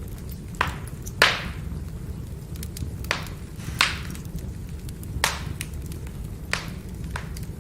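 Firewood burning and crackling: irregular sharp pops and snaps, about seven loud ones with the loudest a little over a second in, among many small ticks over a steady low rumble.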